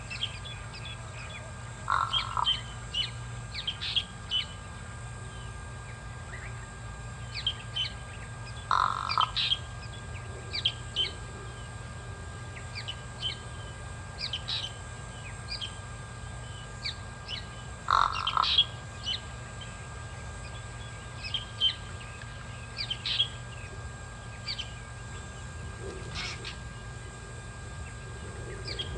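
Pied crow giving harsh caws, three spaced several seconds apart, while small birds chirp high and briefly throughout. A steady low electrical hum runs underneath.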